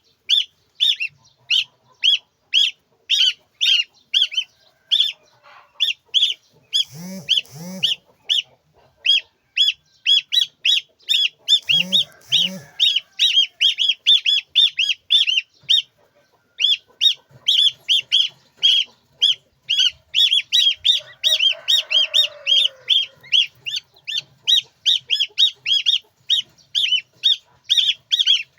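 Young poultry chicks peeping shrilly and almost without pause, about three short peeps a second. Deeper calls from an adult bird break in twice, and a lower falling call comes about two-thirds of the way through.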